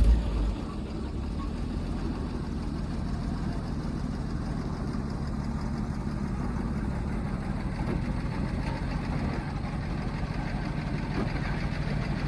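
Old Chevrolet army truck's straight-six engine running steadily at idle, with a brief low bump right at the start.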